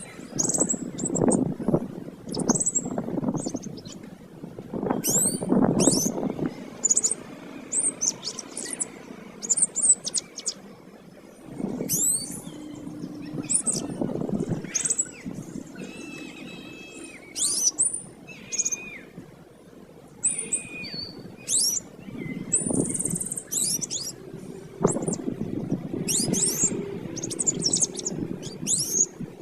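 Domestic canary singing vigorously: a long run of quick, high chirps, sweeping notes and short trills, broken by brief pauses, over intermittent low background noise.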